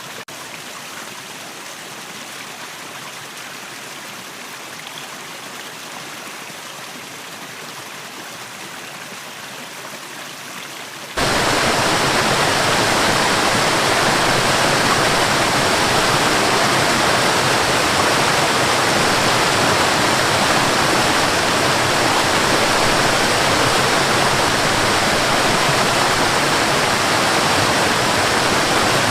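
Waterfall and flowing water, a steady hiss of falling water. It is quieter and thinner at first, then about a third of the way in it jumps abruptly to a much louder, fuller rush of falling water.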